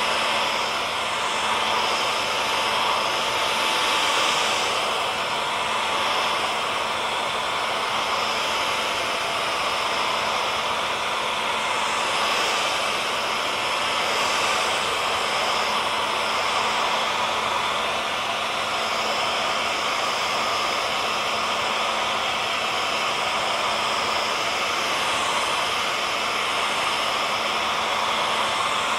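Electric hair dryer running steadily: a constant blowing hiss with a steady motor hum and whine.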